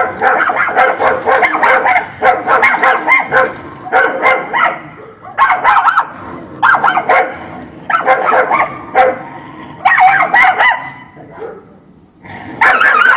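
Dogs barking angrily in rapid volleys. Dense, continuous barking gives way to separate bursts with short pauses, and after a brief lull near the end the barking starts up again.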